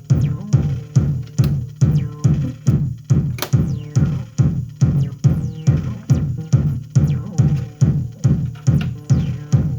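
Electronic music through a mixing desk: a steady bass-heavy pulse, about two beats a second, each beat dying away quickly, with a few faint falling whistling tones above it.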